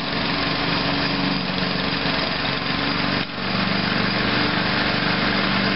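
Van engine idling steadily with its vacuum leaks just sealed, a continuous mechanical hum; the level dips briefly about three seconds in.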